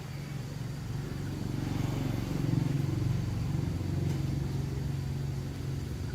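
An engine running steadily, swelling louder about two to three seconds in and easing a little after.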